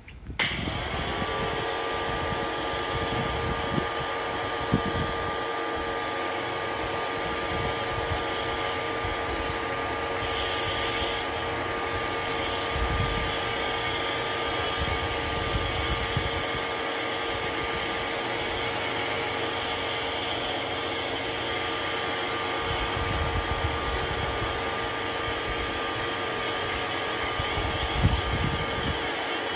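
An electric pressure washer's motor kicks in about half a second in and runs steadily, with a high motor whine over the hiss of water spraying.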